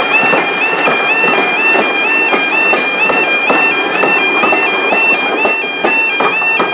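Level crossing alarm sounding, a steady two-tone warble switching pitch about twice a second, over the rumble and clatter of a passing train.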